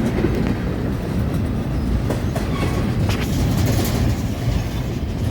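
Freight train passing at speed, climbing upgrade: a steady low rumble with a few sharp clicks of wheels over the rails.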